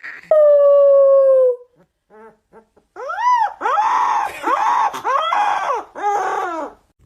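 Dog vocalising in a drawn-out, talking-back way. It gives one long held whine that sags in pitch at the end, then a few short yips, then a run of howls that each rise and fall in pitch.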